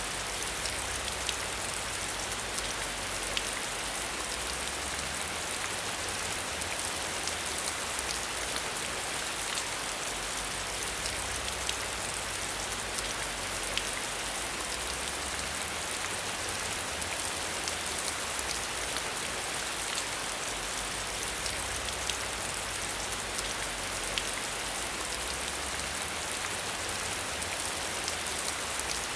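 Steady rain falling: an even hiss full of many small drop ticks.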